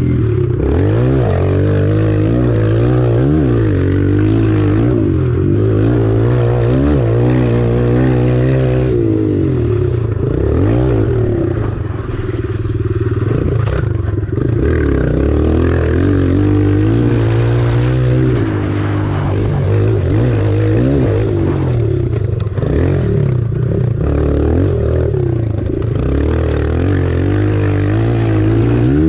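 Kawasaki KLX140 pit bike's single-cylinder four-stroke engine running hard, its pitch climbing and dropping over and over as the throttle is opened and eased.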